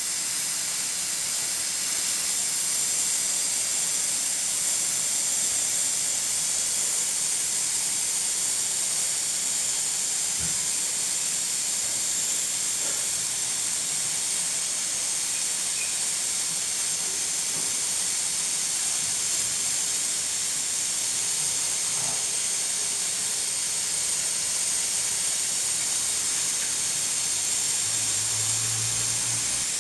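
Pressure cooker hissing steadily as steam escapes past its weighted valve.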